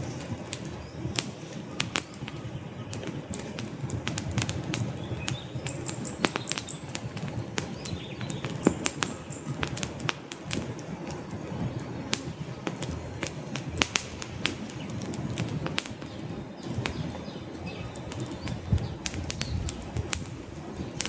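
Wood fire crackling: frequent, irregular sharp pops and snaps over a steady low rush of burning logs.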